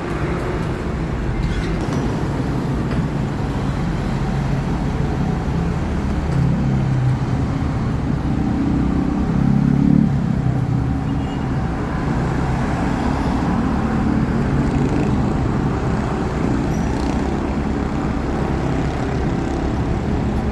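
Road traffic: a steady engine rumble, swelling to its loudest about ten seconds in as a large vehicle's engine passes close, then settling back to a steady rumble.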